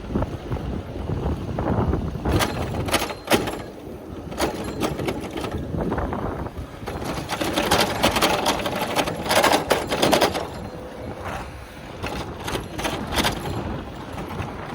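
A moving bicycle rattling and clicking over rough pavement, a quick run of small knocks, busiest in the first two-thirds.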